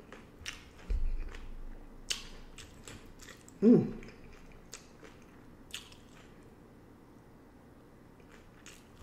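Close-up chewing and crunching of hard-shell beef tacos, with scattered crisp crunches and wet mouth clicks that thin out in the second half. There is a low thump about a second in, and a short hummed vocal sound a little before halfway.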